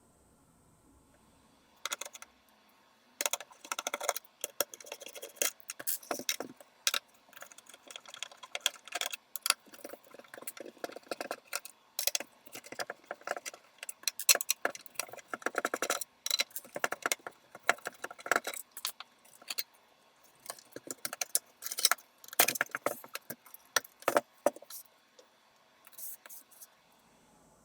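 Small metal parts clinking and rattling against each other as they are handled, in quick irregular runs of light clicks.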